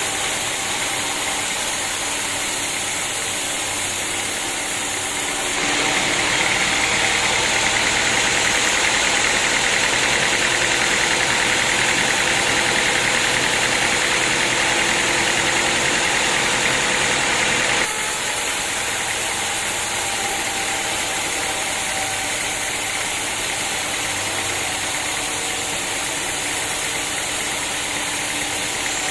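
Sawmill machinery running steadily. About six seconds in the sound turns abruptly louder and higher, and about eighteen seconds in it drops back just as abruptly.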